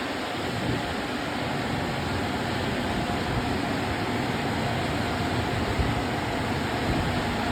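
LaserWash touchless automatic car wash running, a steady rushing noise with a faint steady hum.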